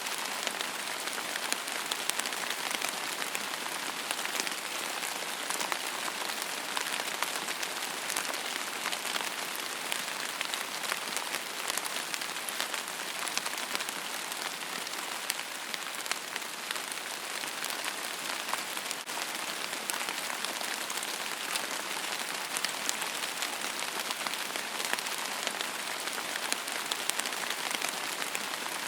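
Steady rain falling on a surface, a dense hiss of many small drop ticks with no thunder.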